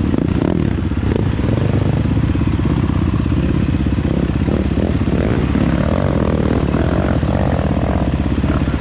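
Dirt bike engine running steadily under way, at an even, unbroken pace.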